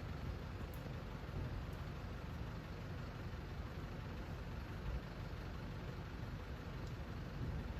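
Steady rumble of passing road traffic, with no single vehicle standing out.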